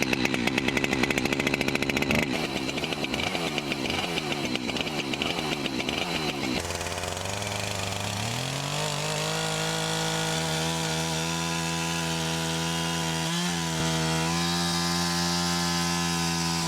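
Chainsaw cutting through pond ice. For the first six seconds or so the engine speed rises and falls in quick pulses; then it climbs and holds a steady high note at full throttle.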